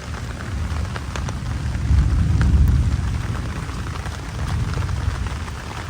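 Steady rain falling, with a low rumble of thunder that swells about two seconds in and slowly fades.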